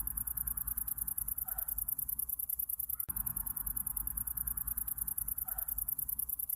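Summer-night insect chorus: a steady, very high-pitched, fast-pulsing trill like crickets, over a softer hiss and a low rumble, with the same few seconds repeating about every four seconds.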